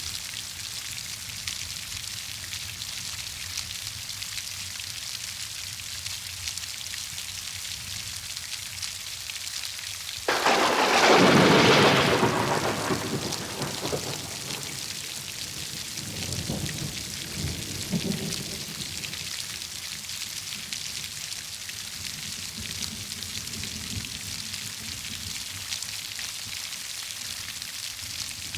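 Heavy rain falling steadily. About ten seconds in, a thunderclap breaks in suddenly and loudly, then rolls on in lower rumbles for several seconds before fading back under the rain.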